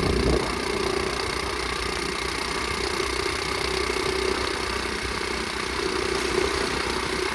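Flywing pit bike's small engine running at a steady, even speed, with a steady hum over a rushing haze.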